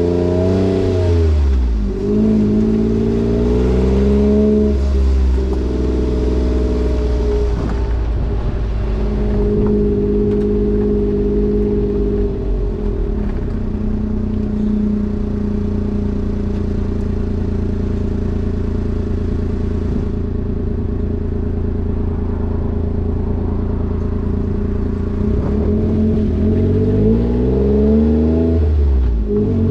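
Exhaust note of a kei truck's 660 cc three-cylinder engine through a new aftermarket muffler. The engine pitch drops sharply in the first couple of seconds, holds fairly steady for most of the time, then rises and falls again near the end.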